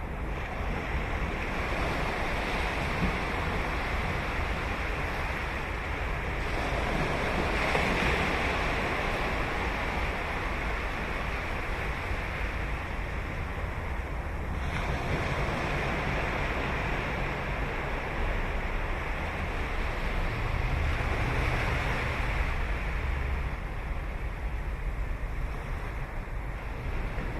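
Ocean surf breaking and washing up a sandy beach, a continuous rush that swells louder twice as bigger waves break, over a low rumble of wind on the microphone.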